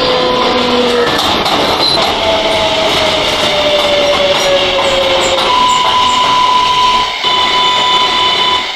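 R143 subway train running, with steady wheel and track noise and an electric whine: one tone sliding slowly lower, then a steady higher-pitched whine from about halfway through.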